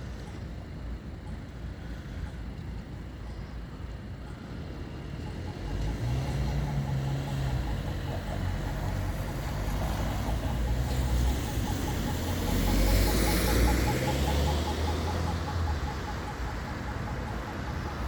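Končar tram passing: its motor hum and rumble build up about six seconds in, peak with a hiss of wheels on rail after about thirteen seconds, then fade.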